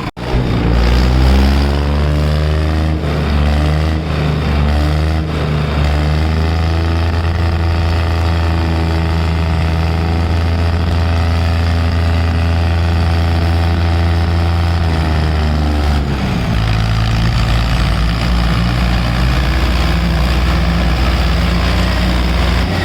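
Diesel tractor engines labouring at full throttle under heavy load in a tractor tug-of-war, one deep steady engine note that comes in loud just after the start. About sixteen seconds in the note changes and runs rougher and lower.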